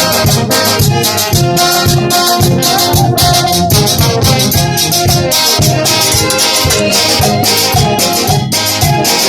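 A Peruvian brass band playing: horns carry a melody over a steady, even drum beat.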